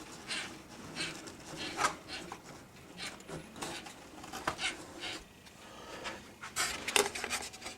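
Hands handling a painted plastic model spaceship: faint scattered rubbing and scraping with a few light clicks and knocks, a little louder near the end.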